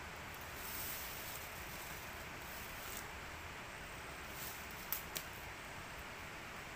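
Steady background hiss with a few light clicks and taps, the sharpest two close together about five seconds in.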